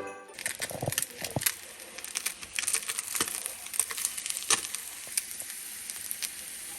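Flautas frying in hot oil in a pan, a steady sizzle with many sharp crackles and pops; the pan is overheated and the flautas are burning.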